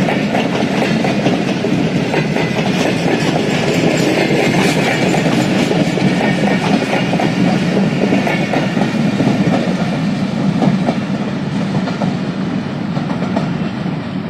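Passenger train coaches rolling past, their wheels clattering over the rail joints in a steady run. The sound fades near the end as the train draws away.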